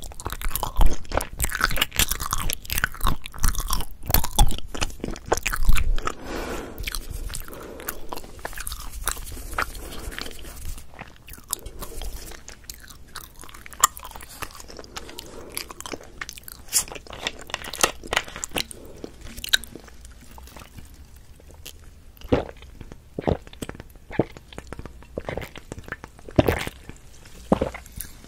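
Close-miked chewing of Korean potato bread, a dense run of mouth noises that thins out about halfway through. Toward the end, a few sharper separate clicks come as a plastic water bottle is handled.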